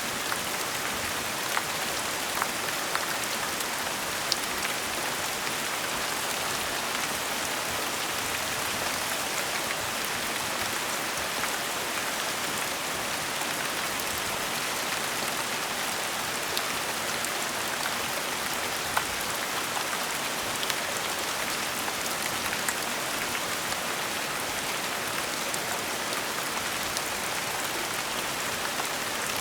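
Steady gentle rain falling, an even hiss with scattered individual drops ticking.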